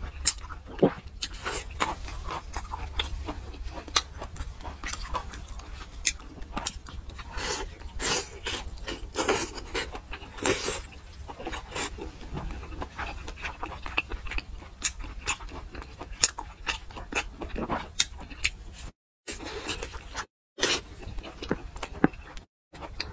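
Close-miked chewing and lip-smacking of soft, fatty braised pork, with many sharp wet mouth clicks and smacks. Three brief dropouts to silence near the end.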